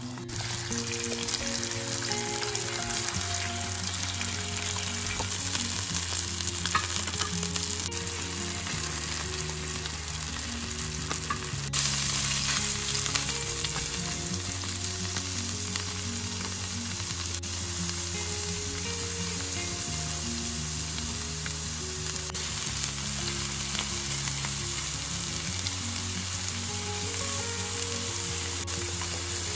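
Sliced cheese kransky sausage and portobello mushrooms sizzling in oil in a non-stick frying pan, turned now and then with a spatula. The sizzle gets louder about twelve seconds in.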